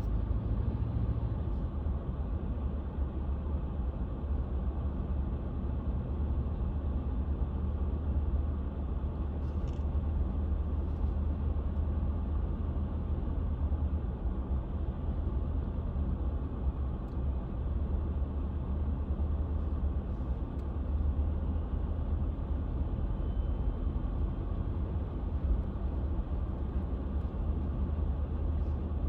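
Steady low rumble of a car's engine and road noise while driving, heard from inside the car.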